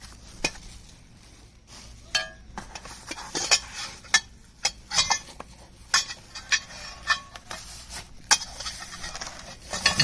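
Metal parts of a cast-aluminum and steel chainsaw mill being handled, clinking and knocking against each other in a run of sharp, irregular clinks with brief ringing, the loudest about 3.5 s and 8 s in.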